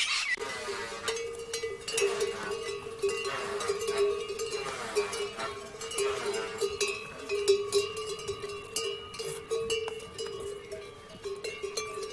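Bells hung on pack yaks ringing and clanking continuously with the animals' walking, with many sharp clinks over a steady ring.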